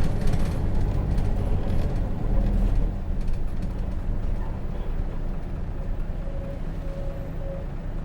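Hino J08C inline-six diesel engine of a Hino RJ bus running under way, heard from inside the cabin as a steady low rumble with road noise, easing off a little toward the end.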